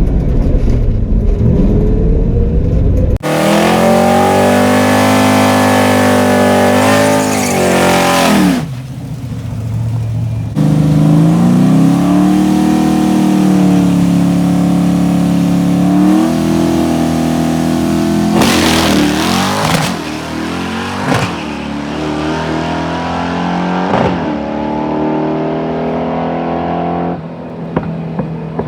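Car engine accelerating at full throttle on a drag run, launching about three seconds in. Its pitch climbs, drops back at the gear changes, climbs again, then falls away as the car lifts off.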